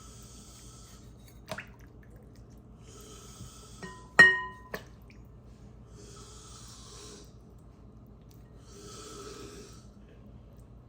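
Trimming fat from raw chicken: one sharp clink with brief ringing, like a utensil striking a glass or ceramic dish, about four seconds in, with a few lighter clicks around it. Soft breathing sounds recur about every three seconds.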